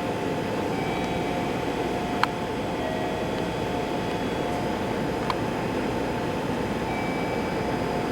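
Steady hum and rumble of a local train, with a few faint steady tones over it and two faint sharp clicks, about two and five seconds in.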